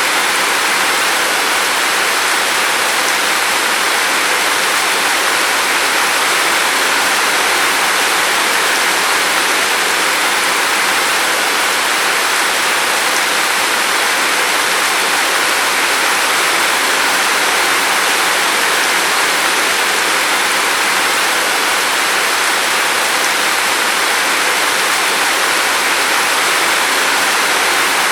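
Steady rain falling, an even hiss that holds constant with no single drops or thunder standing out.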